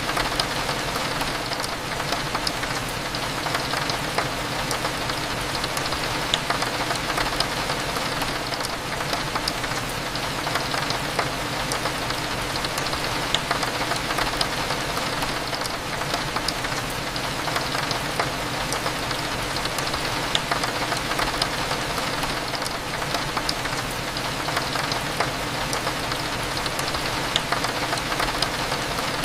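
Steady rain with scattered raindrop ticks on a window, over a low, steady hum of cafe ambience.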